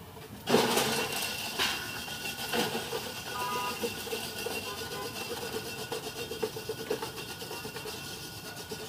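Cooking oil sizzling in a hot wok: a sudden burst of sizzling about half a second in that settles into steady crackling.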